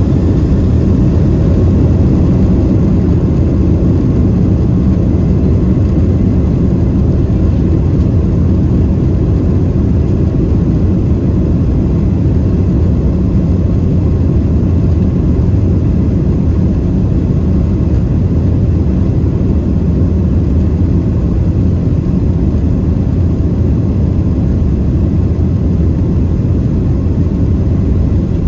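Boeing 767-300ER jet engines running: a loud, steady low rumble that holds even throughout.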